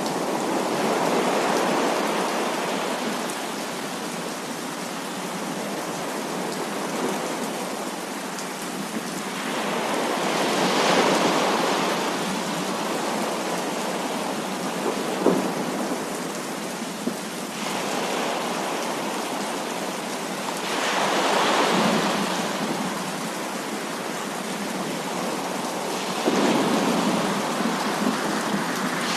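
Heavy rain falling steadily during a thunderstorm, swelling several times as thunder rolls through, with a couple of short sharp cracks in the middle.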